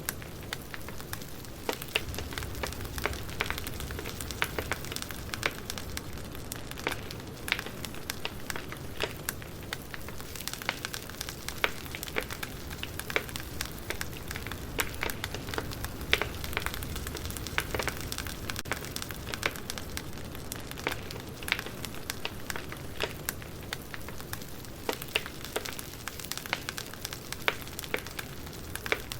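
Firewood burning, crackling: many irregular sharp pops and snaps over a steady low rush.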